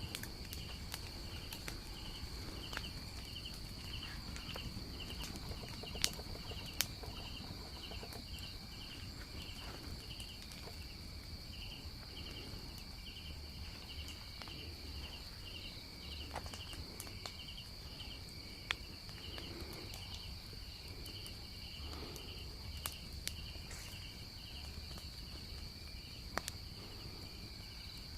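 Tropical forest insects: one steady high-pitched drone with a second insect chirping rhythmically over it, about twice a second. A few sharp clicks stand out now and then, with a low rumble underneath.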